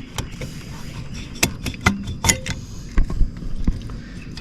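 Scattered metallic clicks and knocks, with a couple of low thumps, as the cylinder of a Kawasaki KFX 50's two-stroke engine is worked up off the piston.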